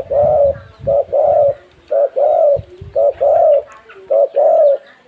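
A bird calling loudly in a repeated two-part call: a short note followed by a longer one, five times at about one call a second.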